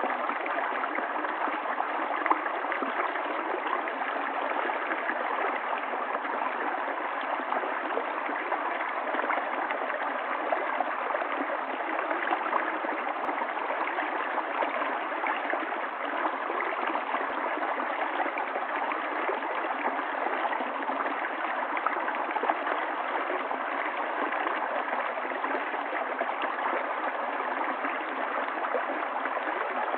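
A stream of running water flowing with a steady, unchanging rush.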